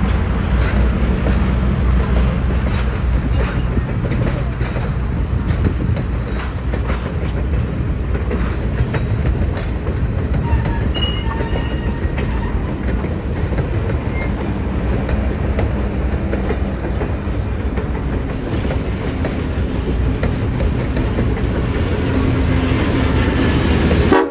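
Train hauled by a Southern Railway FP7 diesel locomotive rolling along the track: the diesel engine runs steadily under many short clicks of the wheels passing over rail joints.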